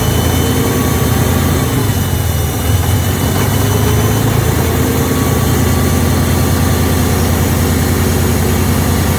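Caterpillar D6C dozer's D333 diesel engine running loudly, its speed wavering slightly a couple of times.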